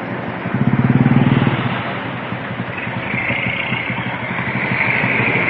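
A vehicle engine running, with a pulsing low rumble that swells about a second in, and a higher whine joining about three seconds in.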